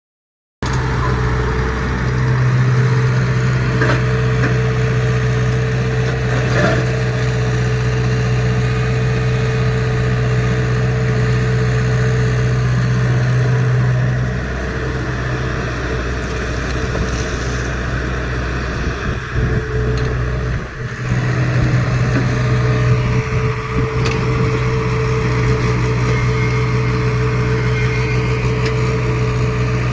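An excavator's diesel engine running steadily. Its note eases off about halfway through, falters briefly about two-thirds of the way in, then comes back up to full strength.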